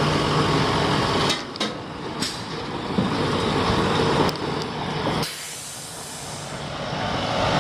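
Dump truck's diesel engine running under load, with a few sharp metal clanks in the first seconds. About five seconds in the engine drops away and a hiss of air takes over, then the engine noise builds again.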